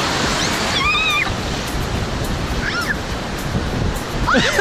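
Ocean surf washing onto the beach, with a few short high-pitched calls over it about a second in and near the end.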